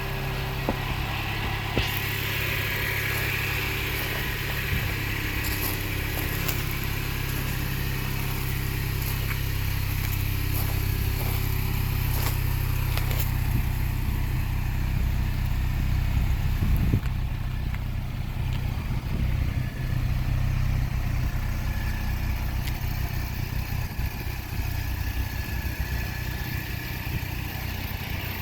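Mini Cooper's engine idling steadily, an even low hum, with a few light clicks over it.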